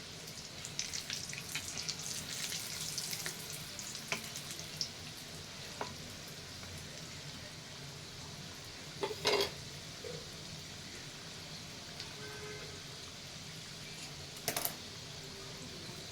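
Kitchen work sounds: a stretch of light crackling for the first few seconds, scattered clicks, and two short louder knocks, about nine and fourteen and a half seconds in.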